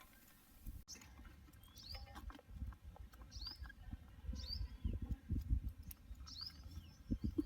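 A bird outdoors calling a short, high, sweeping chirp about five times, roughly once a second. Low, dull thumps and bumps of handling run beneath it, loudest in the middle and near the end.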